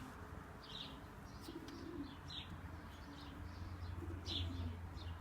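Pigeons cooing in low, repeated phrases about once a second, with short high chirps in between and a low steady hum beneath.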